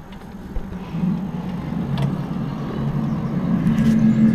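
A low droning hum of several steady held tones, slowly growing louder. It is heard outside an opened window and is taken for a strange noise of unknown origin.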